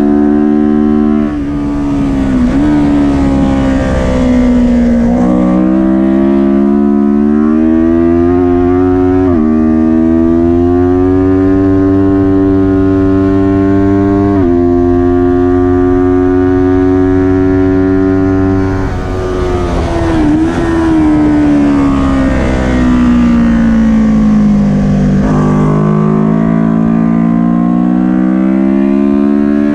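Kawasaki Ninja 400's parallel-twin engine at race pace, its note climbing through the gears with sudden pitch steps at each gear change. It falls away twice for a few seconds as the bike slows, then builds again.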